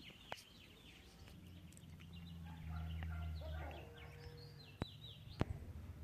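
Small birds chirping over and over in quick, high, falling notes, with a low rumble that swells about halfway through and then eases, and a few sharp clicks.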